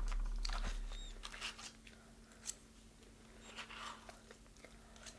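Crunchy bites and chewing of crispy deep-fried chicken, coming as several short crackling bursts.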